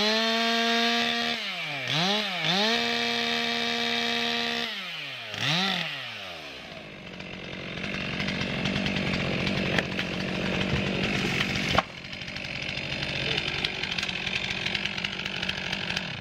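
Stihl MS 362 C-M two-stroke chainsaw revved up and down several times, holding high revs twice in the first few seconds. For the second half the sound turns rougher and steadier.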